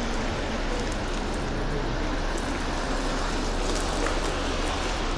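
Steady wash of city traffic noise, with a few faint ticks over it.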